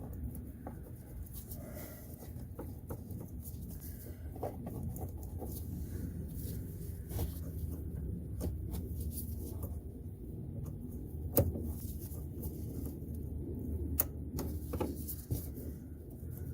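Scattered small clicks and handling noises, the sharpest about 11 and 14 seconds in, over a steady low hum, typical of unclipping plastic wiring connectors and parts at the washer-fluid sensor.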